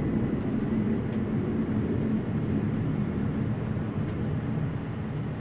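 Jet airliner engines rumbling low and steady, slowly fading.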